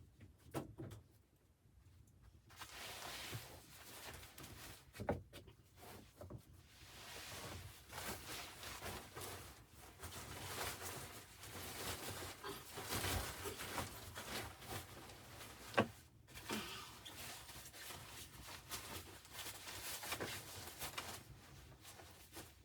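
Handling noise: irregular rustling with scattered knocks and clicks, and a sharper knock about sixteen seconds in.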